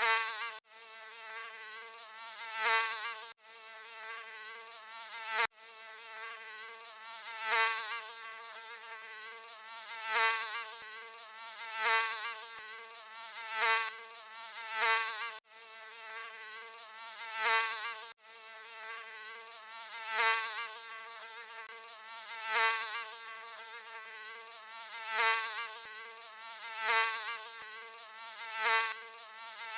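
Mosquito wingbeat buzzing: a continuous high whine with many overtones and a wavering pitch. It swells louder roughly every two seconds, as if flying close past the ear, and cuts out for an instant now and then where the loop is spliced.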